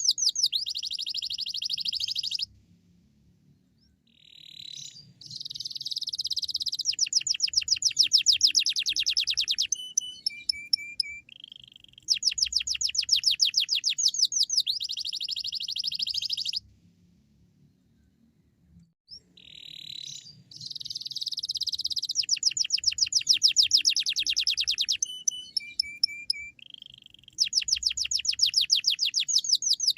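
Domestic canary singing long phrases of rapid trills and rattling runs of fast repeated notes, broken twice by pauses of about two seconds.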